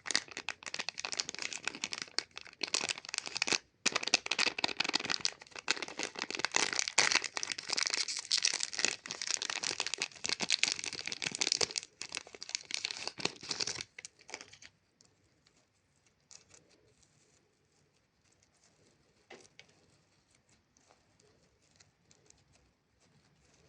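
Plastic wrapper of a Chupa Chups lollipop being crinkled and torn open: dense crackling that stops about fourteen seconds in. Only faint scattered taps and rustles follow.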